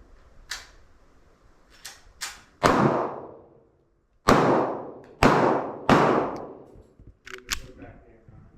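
Four loud gunshots, the first three about a second apart and the last close behind, each followed by a long fading ring. Fainter sharp cracks come before and after them.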